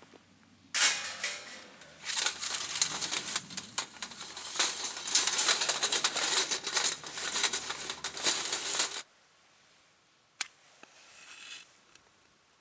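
Close crinkling and rustling with many small sharp clicks, like material being handled or crumpled, stopping abruptly about nine seconds in; a single sharp click follows.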